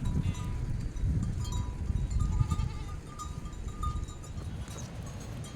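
Flock of sheep and goats with small bells tinkling in scattered short rings, a bleat early on, over a steady low rumble.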